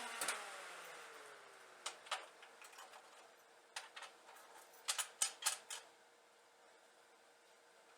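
A power tool's motor whine falling in pitch and fading as it spins down after being switched off, followed by a few scattered clicks and knocks, a quick cluster of them about five seconds in.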